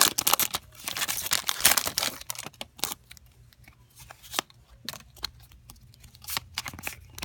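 Foil booster-pack wrapper crinkling and tearing open for the first two seconds or so, then scattered light clicks and taps.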